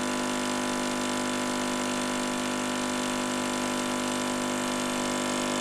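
Nespresso capsule machine's vibratory pump running steadily while it brews a lungo, a constant buzzing hum with no change in pitch or level.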